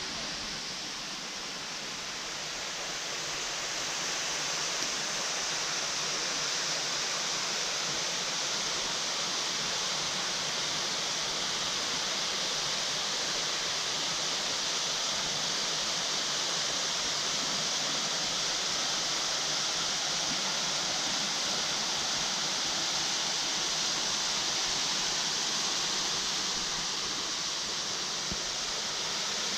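Waterfall with water rushing and splashing in a steady hiss. It grows a little louder over the first few seconds, then holds.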